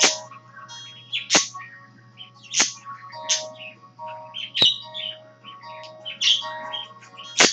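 Two pet parakeets (budgerigars) chirping and warbling along to a song playing, with loud sharp chirps every second or so.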